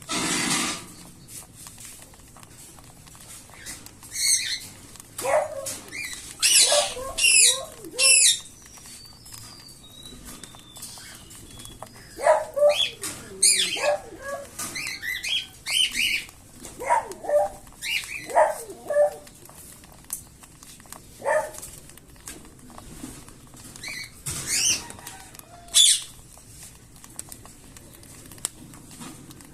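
Cockatiel chicks calling, short sliding chirps and squawks coming in several bursts with gaps between. A brief rustling rush sounds right at the start.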